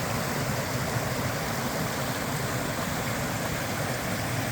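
Small mountain brook rushing steadily over rocks: an even, unbroken wash of running water.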